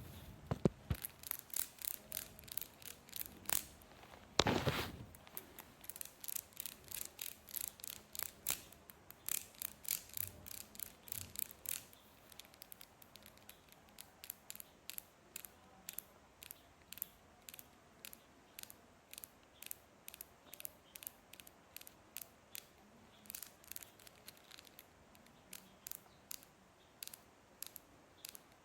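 Scissors cutting through a dry sponge: a steady run of crisp snips, about two a second, with one longer, louder crunch about four and a half seconds in. The snips grow fainter and a little slower about twelve seconds in.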